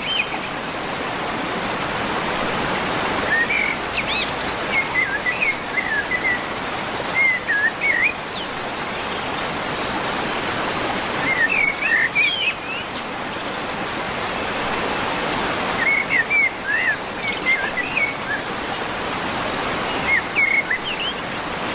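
Birds chirping in short bouts of quick rising and falling notes every few seconds, over a steady rushing hiss.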